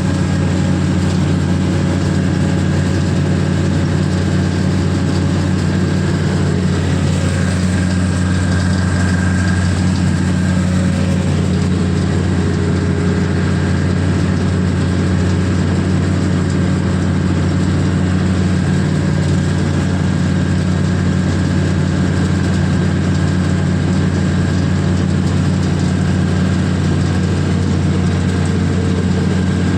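CLAAS combine harvester's diesel engine running at a steady, unchanging speed, a constant low hum.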